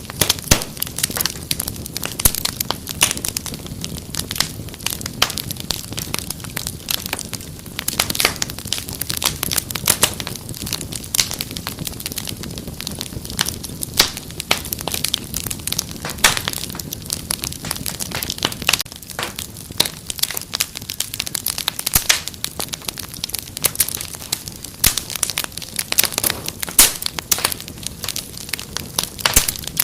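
Wood fire crackling in a fireplace: a dense, unbroken run of sharp pops and snaps over a soft low hiss.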